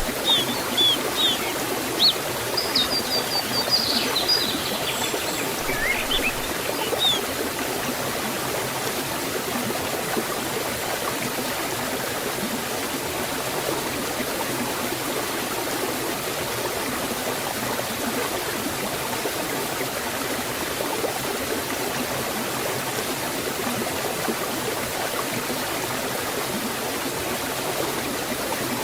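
Water of a waterfall and forest stream rushing steadily. A few short bird chirps sound in the first seven seconds or so.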